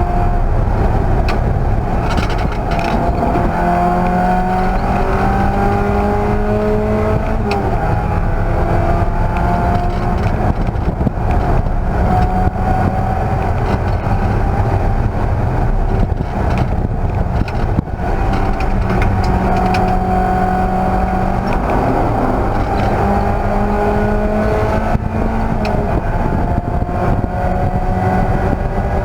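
Race car engine under racing load: its pitch climbs as the car accelerates and drops back at several gear changes. Heavy low road and wind noise runs underneath.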